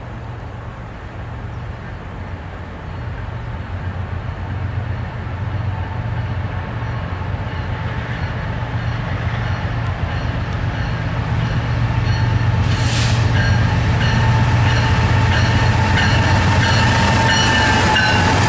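Freight train hauled by BNSF and Norfolk Southern diesel locomotives approaching and passing at speed; the engines' low rumble grows steadily louder. A brief hiss comes about thirteen seconds in, and near the end a high whine dips in pitch as the locomotives go by.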